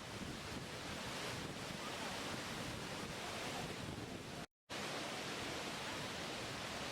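Steady rushing water, an even hiss across the whole range. It breaks off into complete silence for a split second about two-thirds of the way through, then resumes unchanged.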